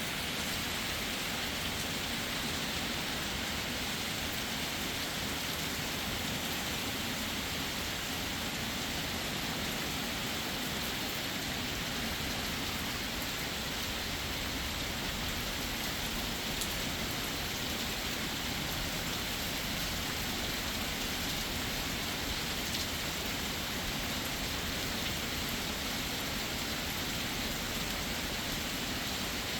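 Heavy rain falling steadily, an even hiss of rain on surfaces with no change in level.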